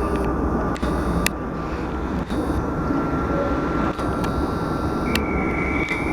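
Class 450 Desiro electric multiple unit pulling out of the station: a steady rumble with a thin steady whine, a few sharp clicks, and a higher tone joining about five seconds in.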